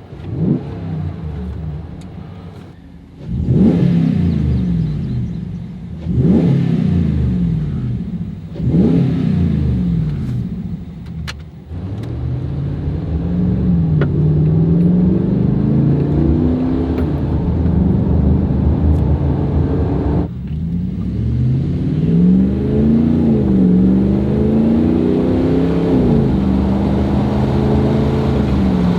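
RAM pickup's V8 through a Flowmaster Signature Series stainless cat-back exhaust with a straight-through muffler: four sharp revs in the first ten seconds or so, each rising quickly and falling away, then the truck under way with the engine note steadily rising and falling as it pulls.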